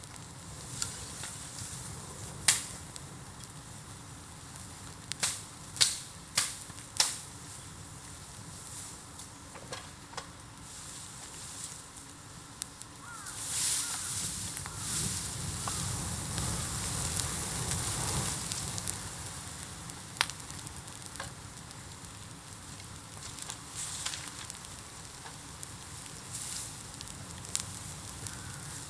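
Bonfire of bamboo burning, crackling steadily with several sharp pops in the first seven seconds. Midway it swells into a loud hiss and sizzle for about five seconds, then settles back to crackling with the odd pop.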